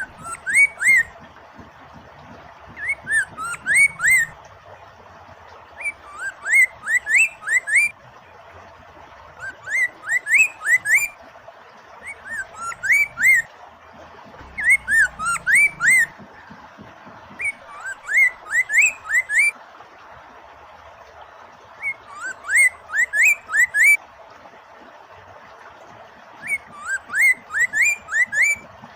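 Poksay mandarin (a laughingthrush) singing a short phrase of quick rising whistled notes, repeated about every three to four seconds. A steady hiss of running water sits beneath the song.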